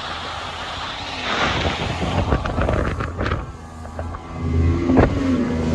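Small motorboat running on the plane at about 20 knots: a steady engine hum under heavy wind and water rush, with a few knocks as the hull meets small swell. The low engine hum grows louder in the last second or so.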